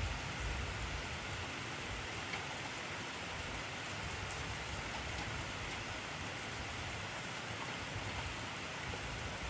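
Heavy rain falling steadily, a dense even hiss of drops with a low rumble in the first second or so that then eases.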